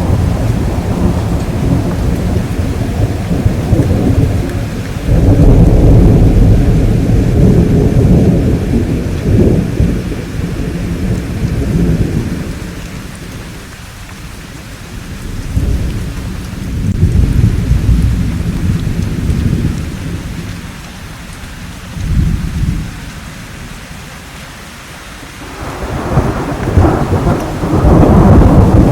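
Thunderstorm: steady rain with repeated rolling thunder. Long low rumbles swell and fade, loudest about five seconds in and again near the end, with quieter rain between them.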